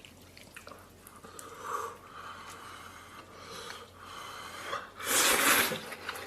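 Close-up eating sounds: quiet mouth noises, then one loud hissing slurp about five seconds in as a mouthful of noodles is sucked in.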